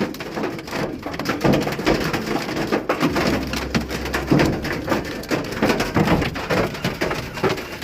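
Hailstones pelting a hard surface in a dense, irregular clatter of sharp impacts.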